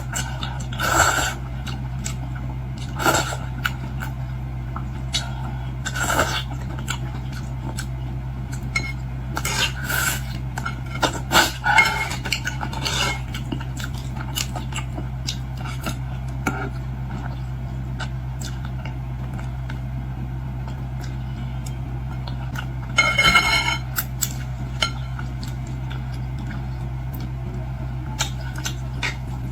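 Cutlery and dishes clinking and scraping in scattered short bursts while seafood is eaten, busiest around ten to thirteen seconds in and again near twenty-three seconds, over a steady low hum.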